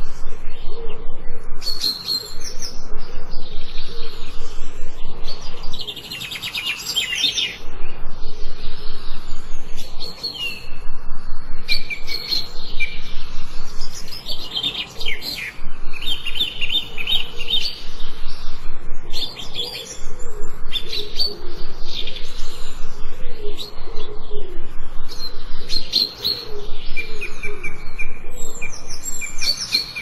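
Several songbirds chirping and singing together: a dense, continuous chorus of quick repeated chirps and short whistled phrases.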